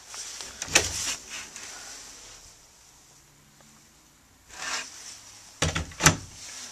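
Brief rubbing and scraping noises, a few separate bursts about a second in and again near the end, with a quieter stretch between: handling and movement noise.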